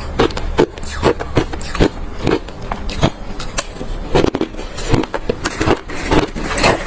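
Close-up chewing of hard refrozen crushed ice: a quick, irregular run of loud crunches, a few each second.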